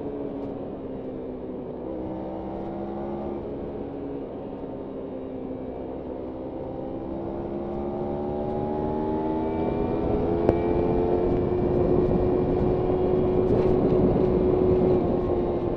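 Kawasaki Ninja 300's parallel-twin engine under riding, its note stepping down in the first few seconds and then climbing steadily as the bike gathers speed, with wind noise growing alongside. The note eases off again near the end.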